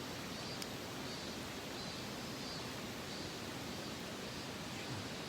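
Steady rushing of a mountain stream, an even water noise with no change in level. A single faint click sounds about half a second in.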